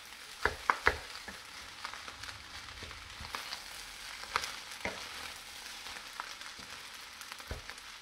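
Rice frying in a wok on low heat, a steady sizzle, with two spoons scraping and clicking against the wok as the rice is stirred. There are a few sharp clicks in quick succession about half a second in, and more a little after four seconds.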